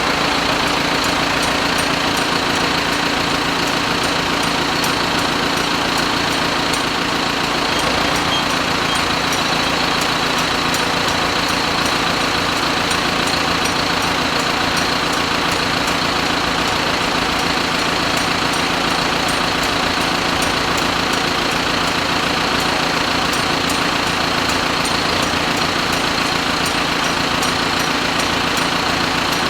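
A small engine running steadily at idle, holding the same even speed throughout with no revving.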